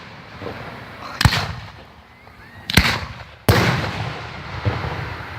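Fireworks exploding: three sharp bangs, the second and third close together, each trailing off in a long echoing rumble.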